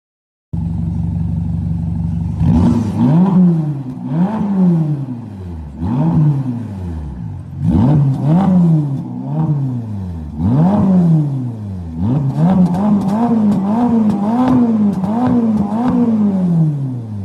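Straight-piped Ferrari twin-turbo V8 exhaust idling briefly, then revved in a string of blips, each rising and falling in pitch about every second and a half. Near the end the blips come quicker and shorter, about two a second.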